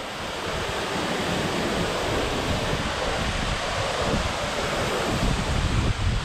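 Steady rushing noise with wind rumbling on the microphone, the rumble heavier near the end.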